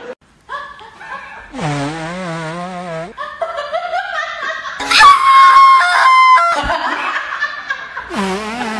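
Laughter with drawn-out, wavering laughs, typical of comedy laugh sound effects, and a loud burst of tones and clicks in the middle.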